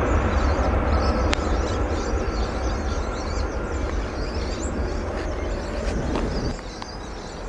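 Airbus A330-300 jet engines heard from the ground as the airliner climbs away after takeoff: a deep, steady rumble that slowly fades. About six and a half seconds in, the low rumble drops off suddenly.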